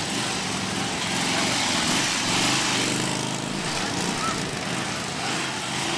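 Police motorcycle engine running, its pitch rising and falling gently with the throttle.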